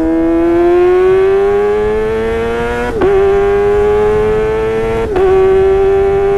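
Kawasaki ZX-25R's inline-four engine running at high revs through a Sportisi Motorsport SRX aftermarket exhaust, its pitch climbing slowly for about three seconds. Twice, about two seconds apart, the note breaks briefly and dips before holding steady again.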